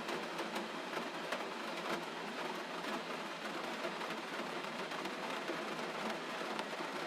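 Gentle rain falling steadily, a soft even hiss with faint scattered drop ticks.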